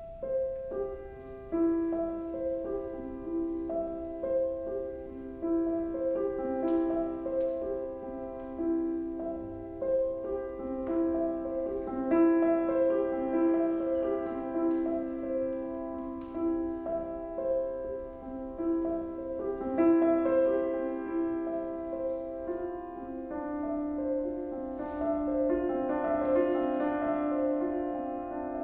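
Live chamber music for piano, violin and cello, a contemporary classical piece: overlapping held notes with sharp struck piano notes here and there.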